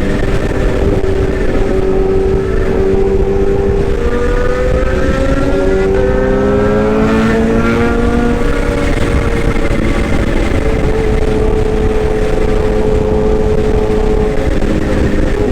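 Excavator engine running steadily, its pitch rising for a few seconds in the middle and then settling at a slightly higher, steady note.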